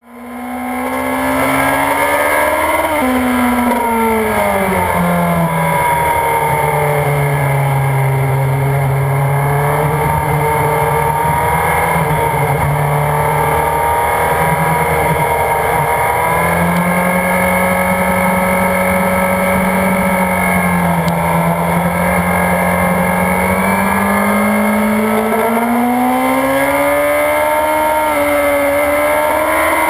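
Motorcycle engine at speed on a race track, its pitch climbing under acceleration and dropping sharply about three seconds in at a gear change, then falling off and holding fairly steady for a long stretch before climbing again in the last few seconds.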